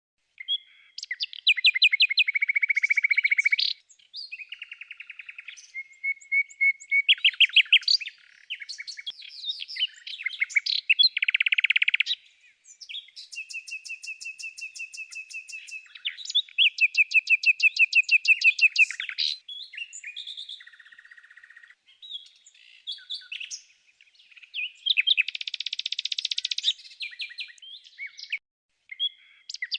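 Birdsong: a run of varied songbird phrases made of rapid chirping trills, clear held whistles and buzzy notes, each lasting a second or two, with brief pauses between them.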